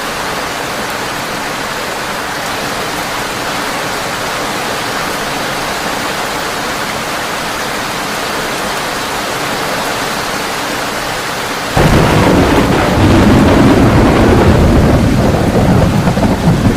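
Heavy rain drumming steadily on a tin roof. About 12 seconds in a loud, deep thunder rumble starts suddenly and keeps rolling under the rain.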